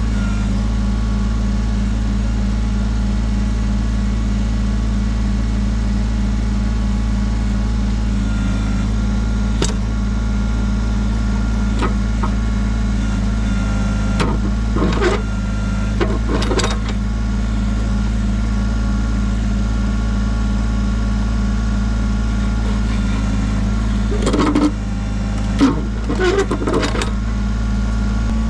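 Kubota BX23S compact tractor's three-cylinder diesel running steadily. A few short clanks and scrapes come around the middle and again near the end.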